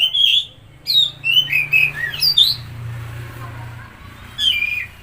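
Oriental magpie-robin (kacer) singing: quick runs of varied whistled and chirping notes in three bursts, with a low hum underneath for a couple of seconds mid-way.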